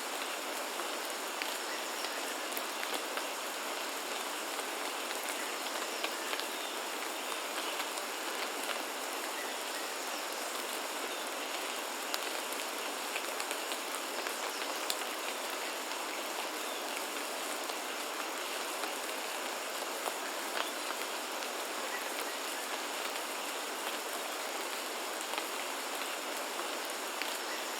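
Steady rain falling, an even hiss with many scattered individual drop ticks, and a faint steady high-pitched tone in the background.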